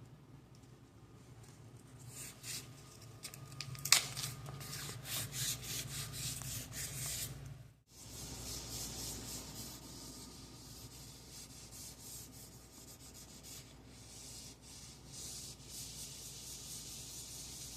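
Rough rubbing and scrubbing on the vinyl composition tile floor, with a sharp knock about four seconds in. It breaks off for a moment a little before the middle, then carries on as a steadier hiss.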